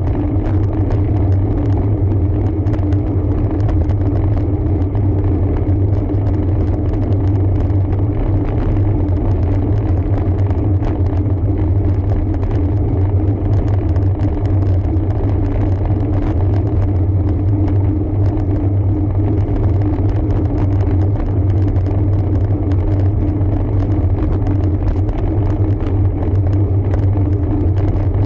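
Steady low rumble of wind and road noise on a road bike's camera microphone while riding, with a steady hum running underneath.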